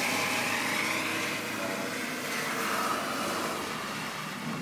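Hino truck's engine running steadily, growing slowly fainter.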